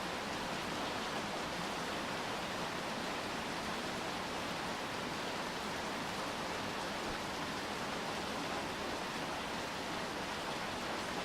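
Steady rain falling: an even, unbroken hiss with no separate drops or other sounds standing out.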